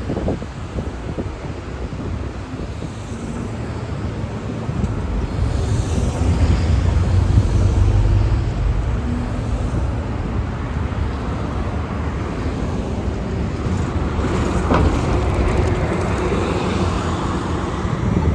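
Street traffic passing on a busy road. A vehicle's low engine rumble builds to its loudest about seven seconds in, and road noise carries on after it.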